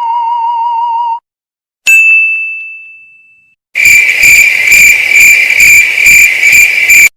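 Three separate sound effects in turn: a wavering electronic tone that cuts off about a second in, then a single bright ding that rings and fades away, then a steady high, rhythmically pulsing chirr, about three pulses a second, that stops abruptly near the end.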